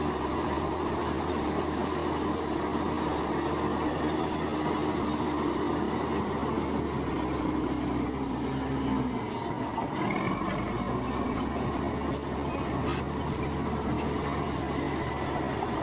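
Komatsu bulldozer's diesel engine running steadily, with the squeal and clatter of its steel tracks. The engine note changes about nine seconds in.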